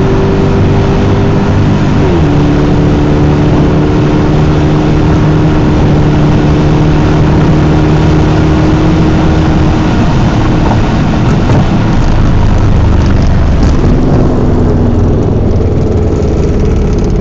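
Lexus SC400's 4.0-litre V8 running loudly under way. Its pitch drops suddenly about two seconds in, then holds steady, and after about ten seconds the steady tone gives way to a rougher rushing noise.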